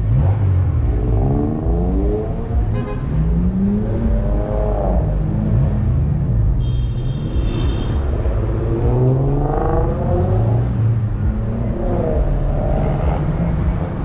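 Car engines revving over a steady low engine rumble. The pitch climbs and drops back in repeated revs, about four times, and a brief high steady tone sounds about seven seconds in.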